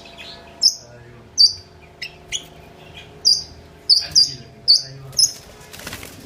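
Small cage birds chirping: a run of short, sharp, high chirps repeated every half second or so, with a brief rustle near the end.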